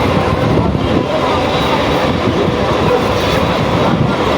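Mumbai suburban electric local train running along the track: a steady, loud rumble of wheels and carriage.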